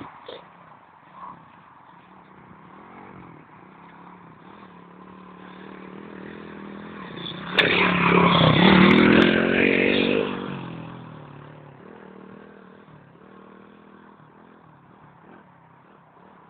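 110cc pit bike's single-cylinder four-stroke engine riding past: it grows louder, is loudest for a few seconds about halfway through, then fades away with a slightly falling pitch.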